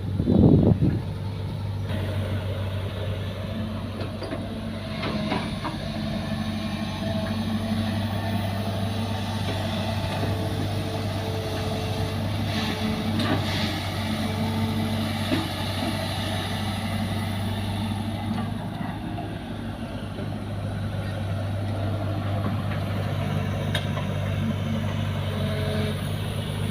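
The diesel engine of an old excavator runs steadily while it digs and loads soil. A loud rumble in the first second is followed by a few brief metallic knocks.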